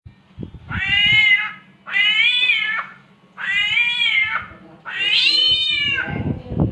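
A samyong bird mimicking a cat's mating yowl: four drawn-out meow-like calls, each about a second long, rising then falling in pitch.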